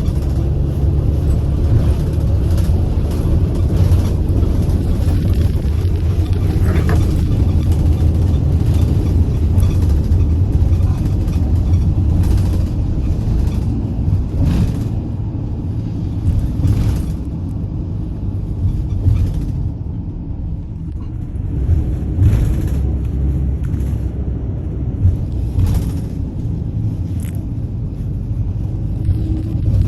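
Steady low rumble of a vehicle in motion, with a few short knocks.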